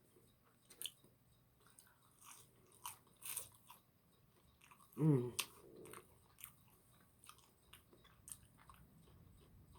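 Close-miked chewing and crunching of fried food, a scatter of small crisp bites and mouth clicks, with a short hum-like vocal sound about five seconds in.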